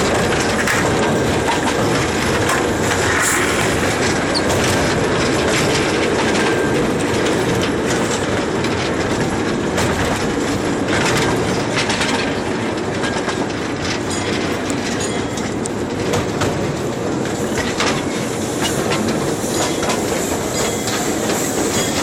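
A train running on rails: a steady rumble with scattered clicks of the wheels over the track.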